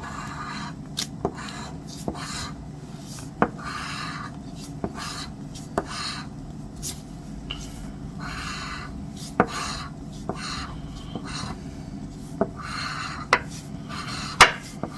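A scratch-off lottery ticket being scratched: repeated short rasping scrapes of about half a second to a second each, with sharp ticks now and then between them.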